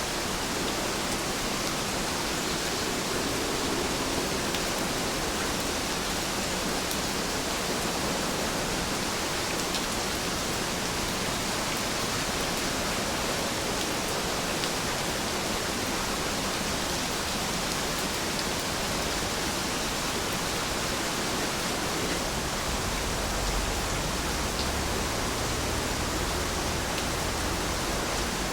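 Steady rain falling, an even hiss with a few faint drop ticks; a low rumble comes in near the end.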